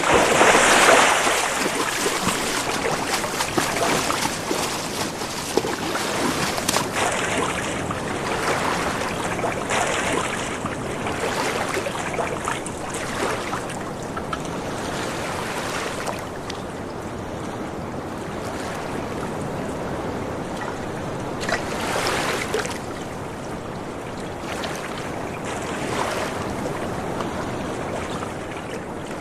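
Water splashing and rushing in repeated surges as people swim through open water, loudest about a second in.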